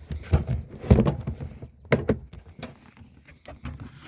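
Knocks and thuds of camping gear being handled and set down in a truck, a string of separate bumps with the heaviest about a second in and another about two seconds in.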